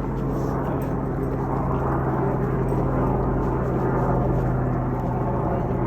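Aircraft engine noise, running steadily with a low hum and a rushing noise that changes little throughout.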